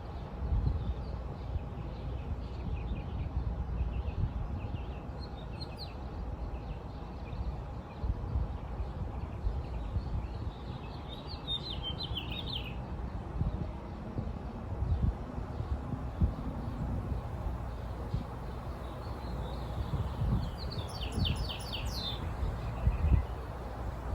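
Wild birds chirping, with three clearer runs of quick chirps about six, twelve and twenty-one seconds in and fainter calls between, over a steady low rumbling background.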